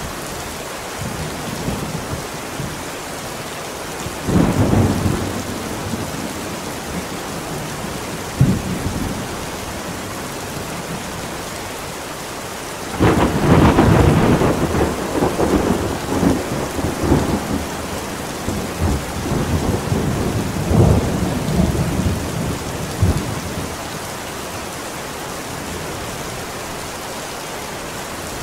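Steady heavy rain with thunder: a short rumble about four seconds in, a sharp crack near eight seconds, then a long rolling peal starting about thirteen seconds in that surges in waves for some ten seconds before fading back to rain.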